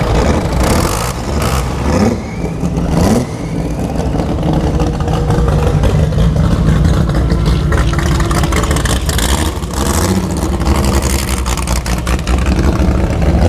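Classic cars and hot rods driving slowly past one after another, engines running loud, with a rev rising in pitch about two to three seconds in.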